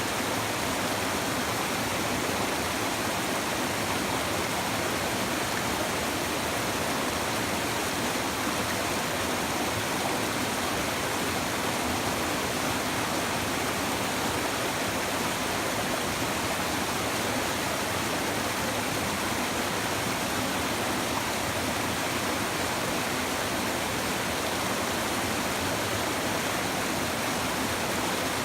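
Steady babbling of a river, water rushing and burbling over stones without a break.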